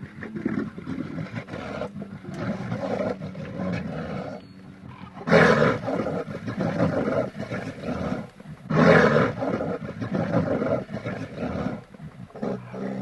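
A large wild animal roaring, with two loud roars about five and nine seconds in and quieter calls between them.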